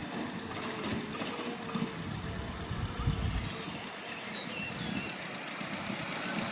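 Miniature railway locomotive's engine idling steadily.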